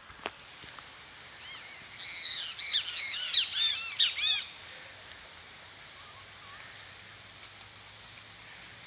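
A bird calling: a fast run of loud chirping notes, each rising and falling in pitch, lasting about two and a half seconds from about two seconds in. A single sharp click comes just after the start.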